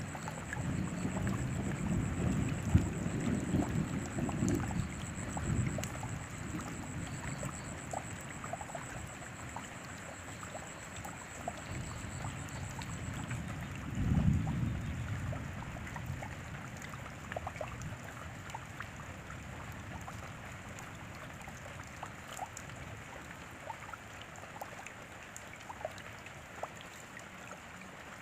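Rain falling steadily, a constant wash of noise with scattered ticks of individual drops. Deep rumbles rise over the first few seconds and again about fourteen seconds in.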